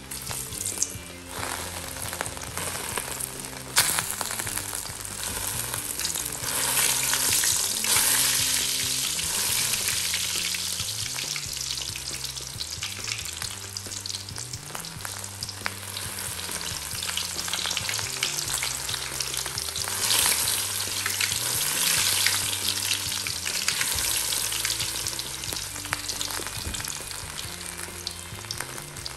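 Hot cooking oil sizzling in a large aluminium wok around a foil-wrapped stuffed milkfish, with the sizzle swelling louder in stretches as the oil is ladled over it. Two sharp knocks come in the first few seconds.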